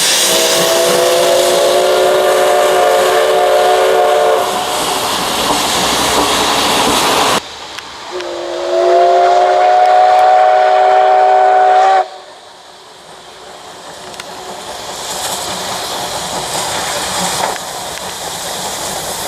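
SL Ginga steam locomotive (JNR C58 239) blowing its whistle twice, each blast a chord of several steady notes lasting about four seconds, over loud steam hiss. The sound cuts off abruptly after each blast, and lower steam and train noise follows.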